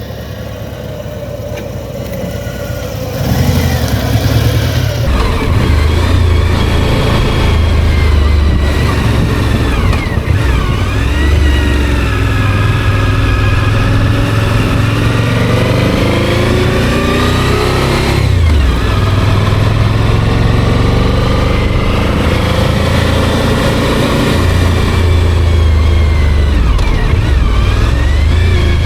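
Motorcycle engine pulling away and accelerating. It is quieter for the first few seconds, then louder from about three seconds in. The pitch climbs through the gears, with sharp drops at each upshift, about three times.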